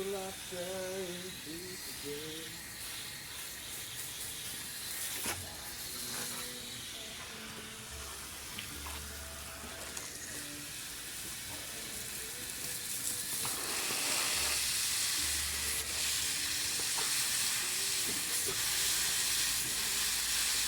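Running water hissing steadily, as from a hose or tap filling a container, growing louder about two-thirds of the way through.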